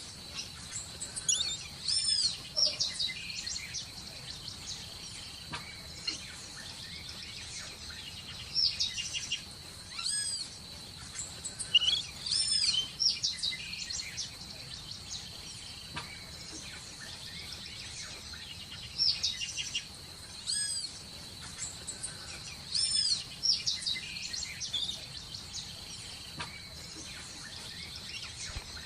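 Birds chirping: short, high, arched whistled chirps in clusters every couple of seconds, over a steady high-pitched hum.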